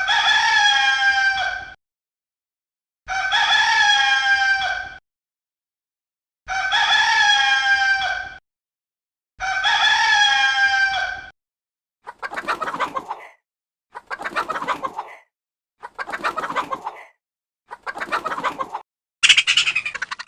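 Rooster crowing: four long, identical crows about three seconds apart, followed by five shorter, rougher calls, the last of them the loudest.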